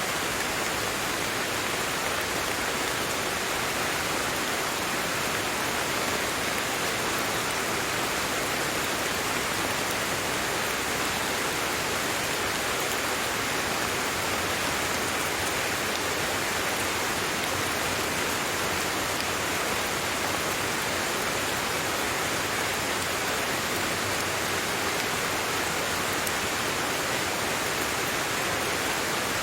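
Steady, even rain, falling without let-up.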